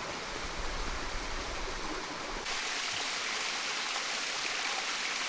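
A stream running steadily. About two and a half seconds in, the rush turns brighter and hissier.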